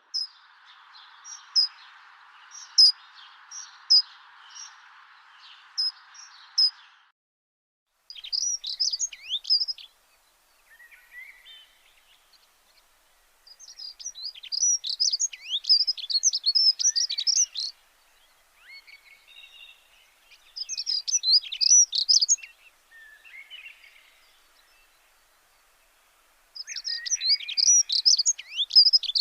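Songbirds singing: phrases of rapid high chirps and trills a few seconds long, separated by short gaps. A steady hiss sits under the chirps for about the first seven seconds.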